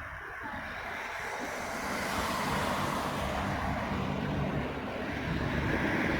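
Jet airliner engines at takeoff thrust: a rushing noise that grows louder over the first two seconds and then holds, with a steady low hum underneath.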